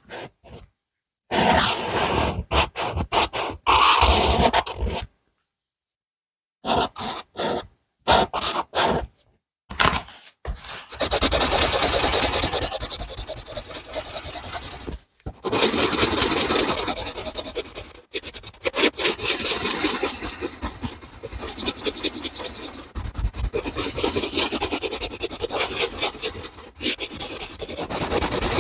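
A drawing tool scraping on paper in colouring strokes. For the first ten seconds or so there are short separate strokes with silent gaps, then from about eleven seconds in a dense, fast back-and-forth scribble.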